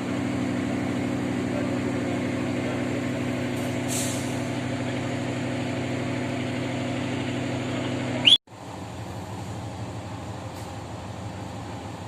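Steady hum of a train's diesel engine, with a short rising squeal and a sharp loud knock about eight seconds in, after which a quieter, even train running noise carries on.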